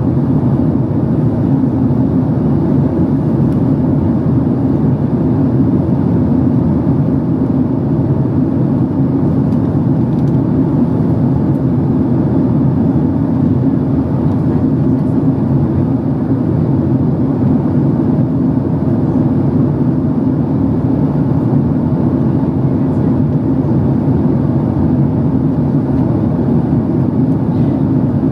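Steady rumble and airflow roar inside the passenger cabin of a Boeing 767-300 airliner in its climb, with the engines at climb power.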